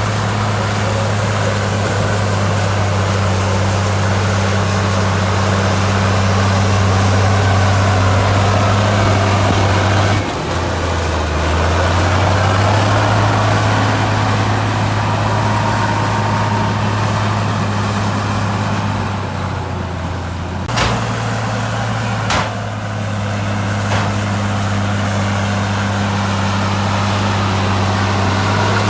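Heavy earthmoving machine's diesel engine running steadily, its speed dropping briefly about a third of the way through and shifting again later. Two sharp metallic knocks come a second and a half apart about two-thirds of the way through.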